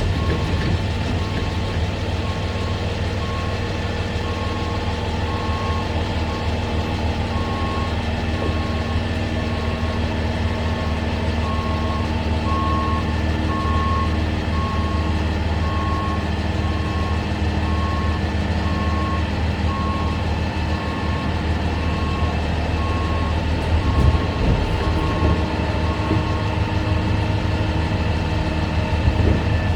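DOLL A380 catering truck running steadily with its PTO engaged as the lift box is lowered, while a warning beeper sounds about once a second. The beeping stops a few seconds before the end, as the box reaches its bottom height.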